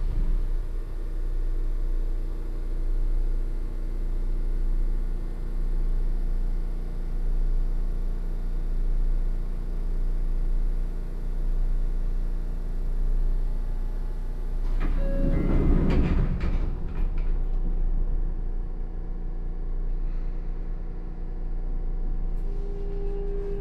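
Sotetsu 8000 series electric train, an early Hitachi GTO-VVVF car, heard from inside while running at a steady speed: a steady rumble with constant hums. A loud rush of noise comes about fifteen seconds in, and new higher tones come in near the end.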